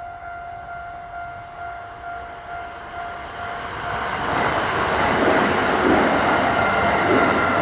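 Kintetsu 8600 series electric train approaching and running past at close range: its wheels and motors build from a distant hum to a loud rush about four seconds in. Before that, a steady ringing tone is heard.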